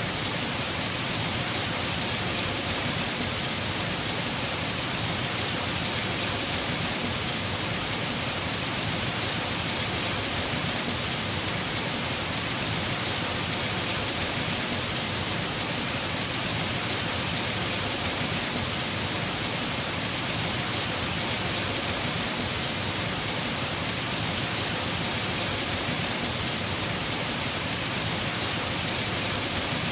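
Heavy rain falling steadily on a house roof, a dense even hiss with no separate drops or thunder standing out.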